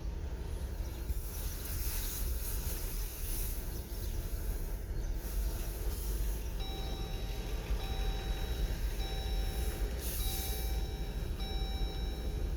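Steady low rumble of idling heavy trucks, with brief hisses. From about halfway an electronic beeper sounds five times, each beep about a second long with short gaps between.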